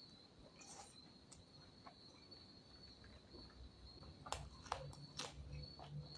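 Quiet eating sounds: a few sharp mouth clicks and smacks while chewing, clustered in the second half. A faint, steady high-pitched insect-like trill continues underneath.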